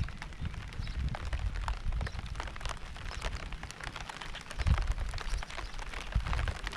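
Rain falling, with many separate drops ticking close by. An uneven low rumble swells now and then, loudest a little past halfway.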